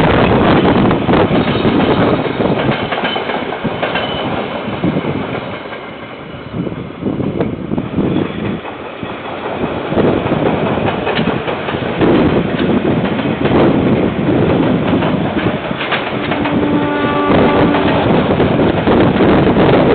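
A train passing on the line, its wheels clattering over the rails. Near the end comes a brief pitched tone with several overtones.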